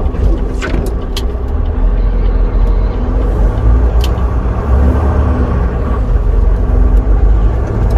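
Semi truck's engine and road noise heard from inside the cab while driving: a steady low rumble, with a few short clicks or rattles.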